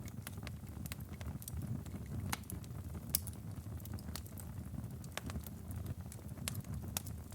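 Wood fire crackling: a steady low rumble of flames with frequent sharp, irregular pops and snaps of burning firewood.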